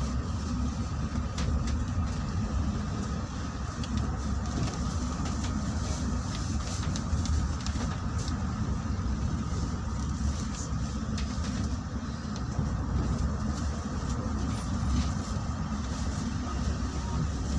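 Vehicle engine and road noise running steadily: a continuous low rumble with an even hiss above it and a few faint ticks.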